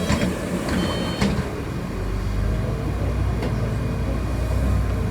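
City bus engine running, heard from inside the cabin, with a low rumble that strengthens about two seconds in. There is a short high beep and a few rattles and clicks in the first second or so.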